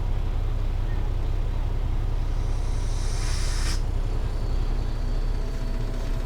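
Kenworth T660 semi truck's Paccar MX-13 diesel engine running, a steady low drone. About two seconds in, a hiss builds for over a second and cuts off suddenly.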